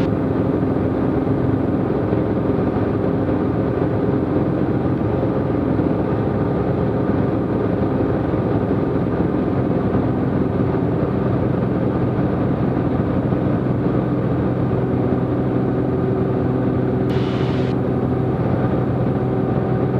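Cessna T210 Centurion's turbocharged six-cylinder piston engine and propeller droning steadily in flight, heard from inside the cabin. A short hiss about three seconds before the end.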